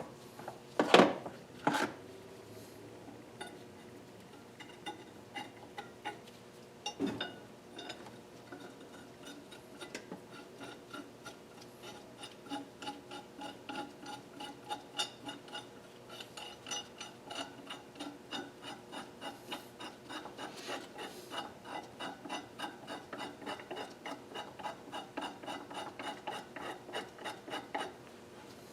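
A few sharp metal clanks, then a long run of quick, even rubbing strokes, about three to four a second, worked by hand on a metal engine part, with a faint ring in each stroke.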